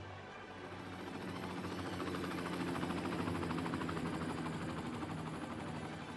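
A motor vehicle passes, its engine sound swelling to a peak about halfway through and then fading.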